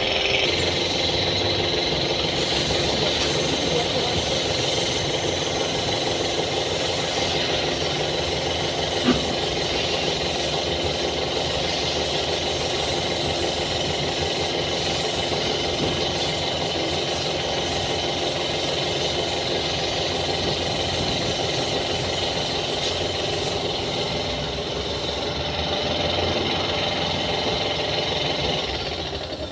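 A machine's motor or engine running steadily, then dropping off near the end.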